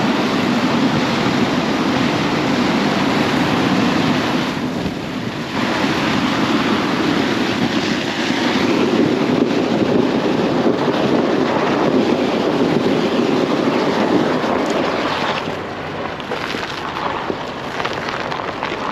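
Tyres crunching as they roll over packed snow: a continuous dense noise, with a brief lull about five seconds in and a lighter stretch near the end.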